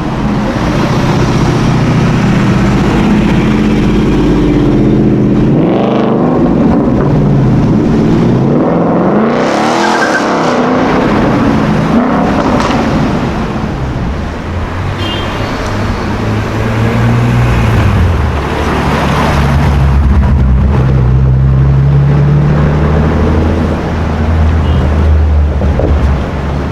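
A high-performance car engine revving and accelerating past, its pitch rising and falling about six to ten seconds in. Then a deep engine note at lower revs, swelling again near the end.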